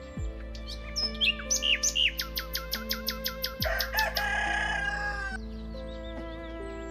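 Birds chirping over soft, sustained background music: a quick run of repeated falling chirps, about five a second, followed by a longer, harsher call near the middle.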